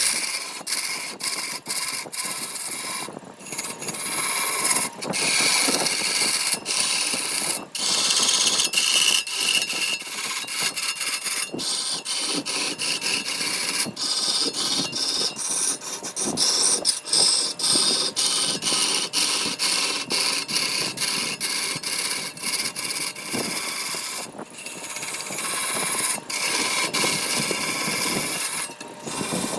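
A tool working wood: rough rubbing and scraping noise that goes on in irregular strokes, broken by many short pauses.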